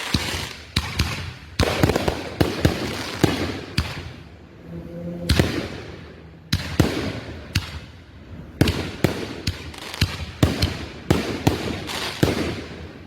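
Consumer fireworks going off in rapid volleys: dozens of sharp bangs and crackling bursts in quick clusters, with two short lulls, stopping just before the end.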